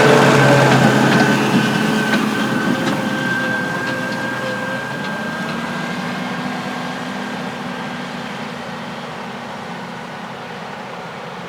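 Heavy farm machine's engine running with a steady high whine, fading steadily as it moves away.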